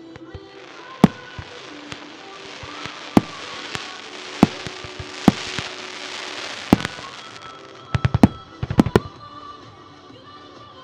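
Fireworks going off: single loud bangs every second or so over a steady crackling hiss, then a quick rapid string of bangs near the end. Music plays underneath.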